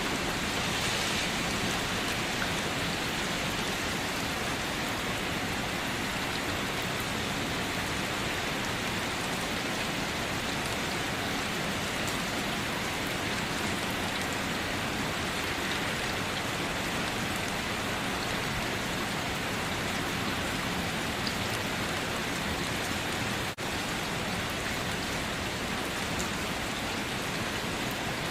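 Steady rain falling on a surface, an even hiss with no breaks except a momentary dropout about three-quarters of the way through.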